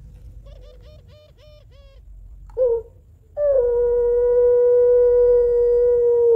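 Female puter pelung, a long-voiced variety of the domestic ringneck dove, calling: a run of about six short soft notes, one brief louder note, then a single long steady note held for about three seconds that drops away at the end. This is the long drawn-out call a hen gives when calling for a male.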